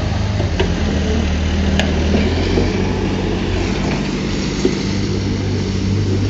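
Heavy diesel engine of earth-moving machinery running steadily, with two brief clicks about three seconds apart.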